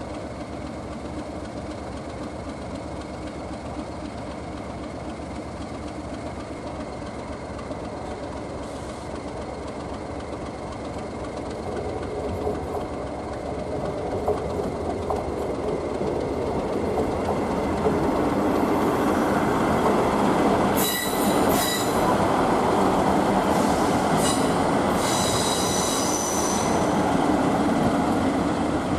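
A pair of diesel locomotives, a Class 37 and a Class 70, running light and drawing closer, their rumble growing steadily louder through the middle. Near the end, as they pass, there are high-pitched squeals of wheels on the rails.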